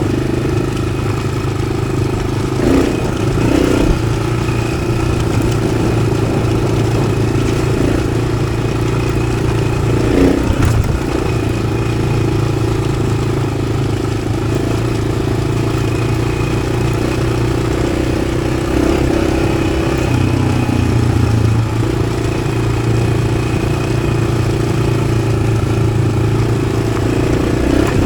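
Yamaha XT600's single-cylinder four-stroke engine running under way through its Arrow aftermarket exhaust, engine speed dipping and rising a few times. A few short knocks and clatters come through about three and ten seconds in.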